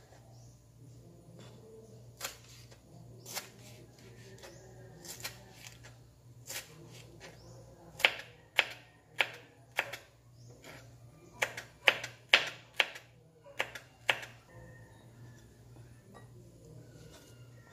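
Kitchen knife chopping a tomato on a plastic cutting board: sharp knocks of the blade hitting the board, a few spaced out at first, then quick runs of loud knocks about halfway through.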